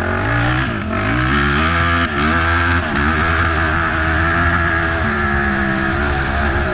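Race ATV's engine under hard acceleration, its pitch climbing in three quick steps through the gears in the first few seconds, then holding steady at high revs.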